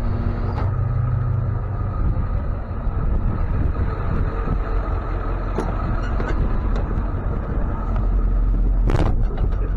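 Tow truck running and moving, a steady low engine and road rumble, with a couple of sharp knocks near the end.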